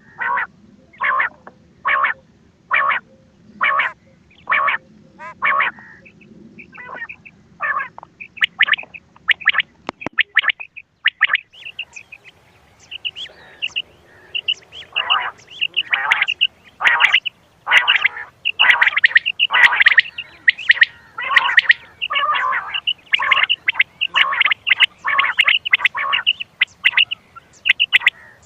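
Recorded quail calls of the kind played as a hunting lure. At first short calls come evenly, about one a second; from about 12 seconds in they turn into a faster, denser run of overlapping calls.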